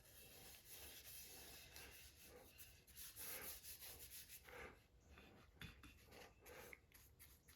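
Faint, soft rubbing strokes, irregular and a second or so apart, of amber shellac being applied to a wooden miter gauge.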